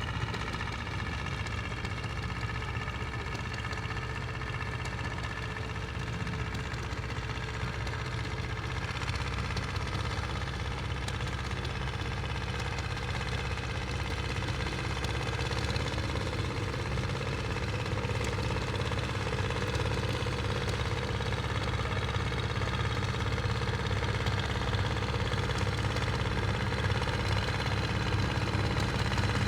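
Tractor engine running steadily, growing gradually louder as it comes closer.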